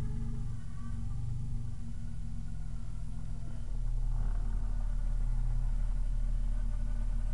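A 3.8 V6 engine running, with a wavering whine above the steady engine hum. The sound grows louder a little under four seconds in.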